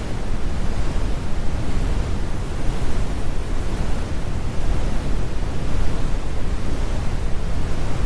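Steady, computer-generated brown noise: an even rumbling hiss, strongest in the bass and with the highs rolled off, with no events or changes.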